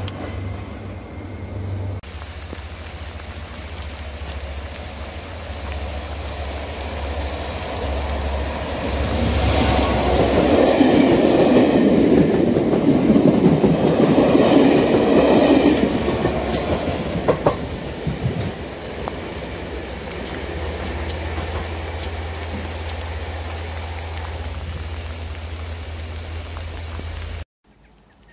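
Diesel-hauled Network Rail test train passing at speed. Its sound builds up, is loudest for about six seconds as the coaches go by with some clicks from the wheels, then fades to a steady low drone.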